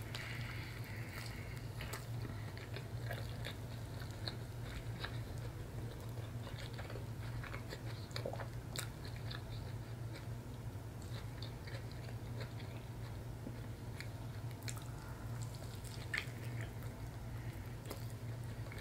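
A person biting into and chewing a soft catfish sandwich on cauliflower flatbread, with wet mouth clicks scattered throughout. A steady low hum runs underneath.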